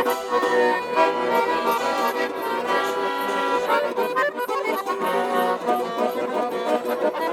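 Russian garmon (button accordion) playing a lively folk tune with chords, between sung chastushka verses.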